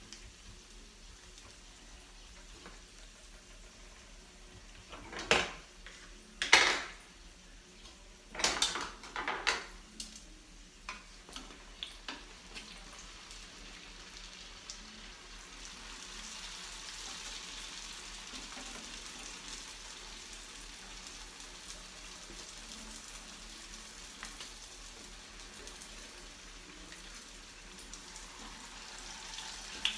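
Fry jack dough frying in a shallow pan of hot oil: a steady sizzle that grows louder about halfway through. A few loud utensil clacks against the pan come about five to ten seconds in.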